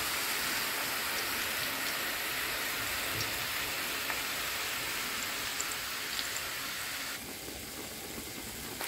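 Battered cauliflower florets frying in hot oil in a frying pan: a steady sizzle with scattered small pops and crackles, easing off a little near the end.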